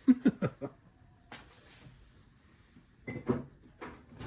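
A few sharp knocks and clatters of objects being handled and set down: a quick cluster at the start, a single click after about a second, and another short cluster about three seconds in.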